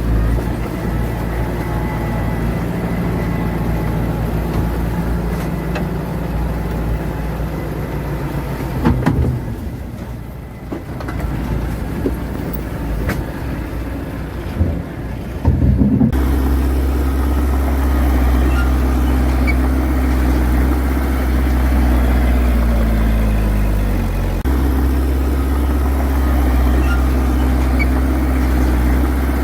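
Heavy diesel engines of earthmoving machinery running. The first engine sound weakens and breaks up about a third of the way in, with a few knocks. Just past halfway a louder engine sound starts abruptly, and about three-quarters of the way in its pitch drops as the engine slows.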